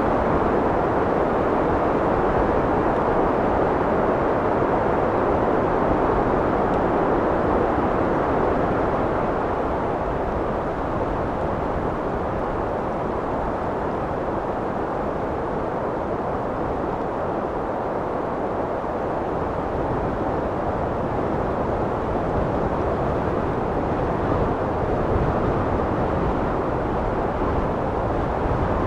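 Steady wind blowing, a dull, even rush that eases a little in the middle and swells again near the end.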